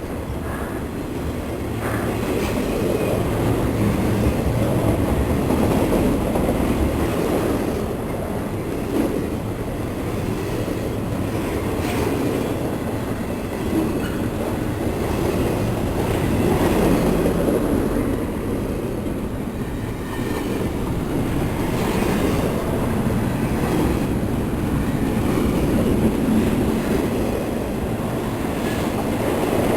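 Railroad cars rolling past: a steady rumble of wheels on rail that swells and fades every few seconds, with a few sharp clicks.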